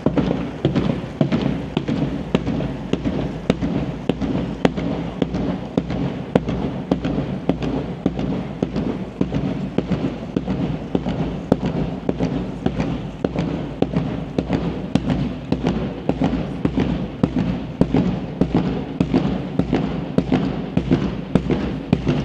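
A dense, uneven run of sharp clacks from hard footfalls on the road, several a second, over a steady low rumble.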